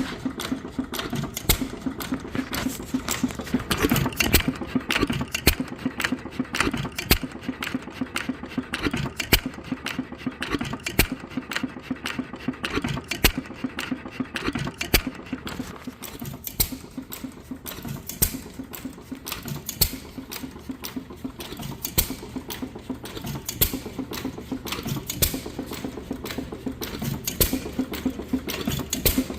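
York 1-1/2 HP hit-and-miss engine running on its first run: a fast, steady mechanical clatter with louder knocks breaking in at uneven intervals.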